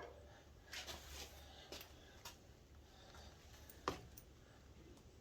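Near silence with a low hum and a few faint clicks and taps, the sharpest about four seconds in.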